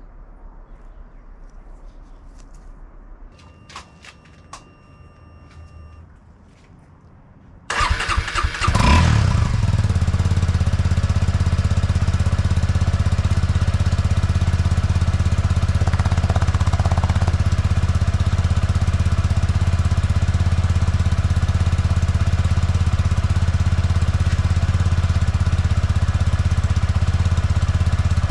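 Suzuki Gixxer 250 SF's single-cylinder engine breathing through its stock exhaust: faint clicks, then the starter cranks and the engine catches about eight seconds in, flares briefly in revs and settles into a steady idle.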